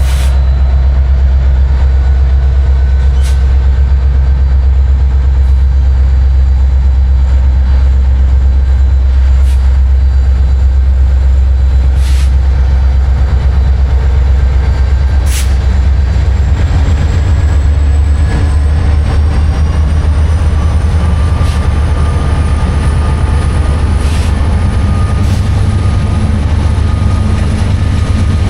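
Train moving on the tracks with a loud, steady low rumble and occasional sharp clicks. About halfway through, a thin whine joins in and rises slowly in pitch.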